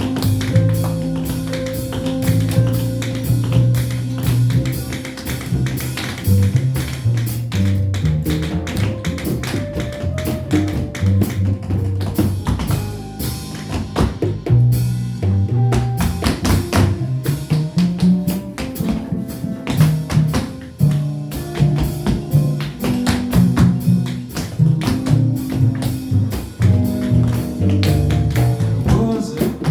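Tap dancing: rapid metal taps on shoes striking the floor in quick rhythmic runs, over a jazz accompaniment of walking double bass, guitar and drums.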